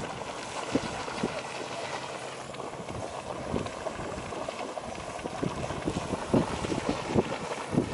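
Erupting geyser: water splashing and surging in an irregular rush of many small bursts.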